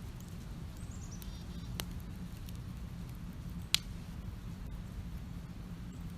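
Wood campfire crackling, with two sharp pops: a small one about two seconds in and a louder one near the middle. A bird gives a short falling series of high chirps about a second in, over a low steady rumble.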